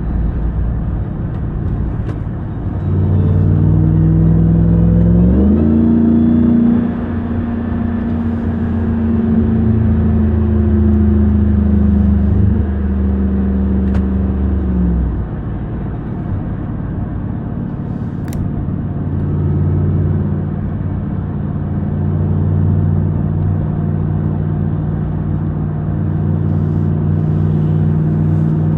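Supercharged 6.2-litre Hemi V8 of a RAM 1500 TRX pickup running on the move: the engine note climbs about three seconds in, holds higher under throttle until about fifteen seconds, then eases back to a lower, steady cruise.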